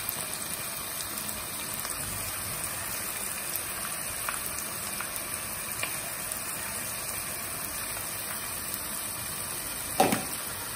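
Steady sizzle of grated cabbage and chopped capsicum frying in butter and oil in a pot, with a short louder sound near the end.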